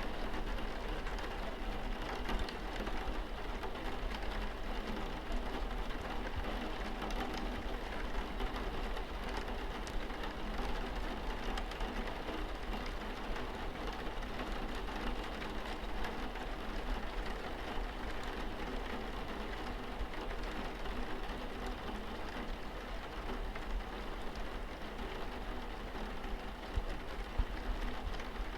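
Steady rain falling on a car windscreen, a continuous hiss dotted with many small drop hits.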